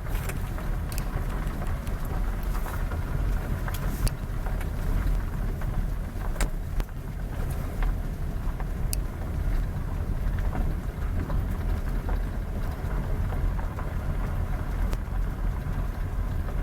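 A motor vehicle's engine and road noise: a steady low rumble with a few faint clicks.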